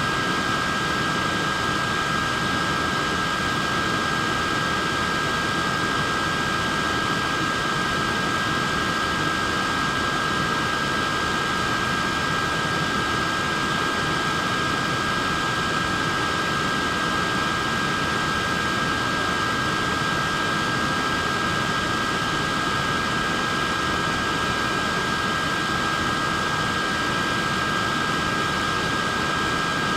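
Portable neck fan running steadily: an even rush of air with a constant high-pitched whine over it.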